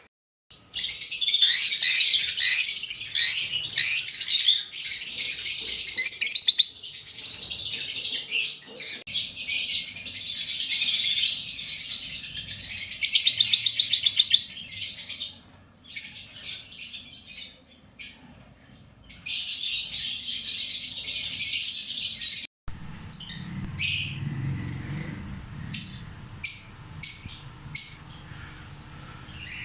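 Lovebirds chattering: a dense, shrill stream of chirps with a few short breaks. After a sudden change about three-quarters through, only separate sharp chirps are heard over a low rumble.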